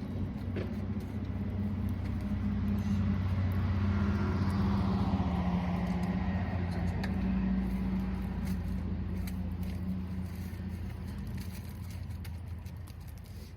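A car's engine running and passing by, with a steady low hum and a rushing sound that swells and drops in pitch around the middle.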